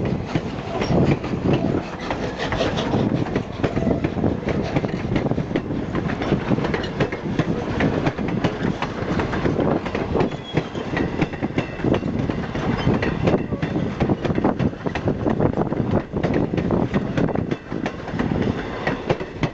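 Railroad passenger cars rolling past close by, a steady rumble of wheels on rail with rapid, irregular clicks and clacks from the wheels over the track.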